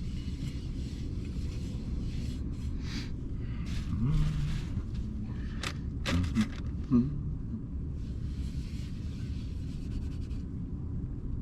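Baby wipes rubbing and scraping over surfaces during a quick cleanup, in short scattered strokes with a few light clicks and knocks, over a steady low rumble.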